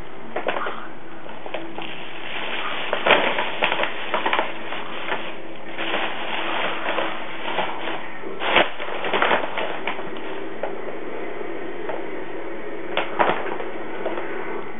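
Bag rustling and crinkling in short irregular spells, loudest at about 3 s, 8.5 s and 13 s, over a steady hiss.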